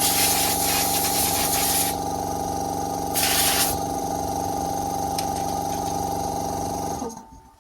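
A plugged-in powered cleaning machine's motor running steadily, with two bursts of hissing high-pressure spray, a long one at the start and a short one about three seconds in. The motor switches off about seven seconds in.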